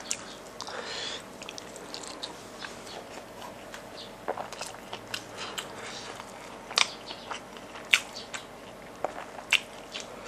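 Close-miked chewing of a mouthful of crispy smashed fried chicken (ayam geprek) and rice: irregular wet mouth clicks and crunches, with a few sharper crunches in the second half.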